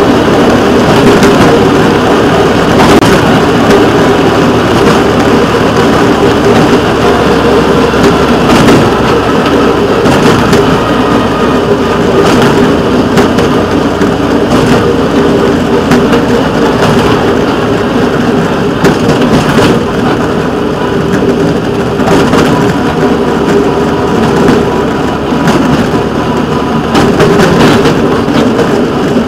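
A train moving slowly along the track, heard from a camera riding on it: a steady engine drone under a loud rumble, with occasional sharp knocks.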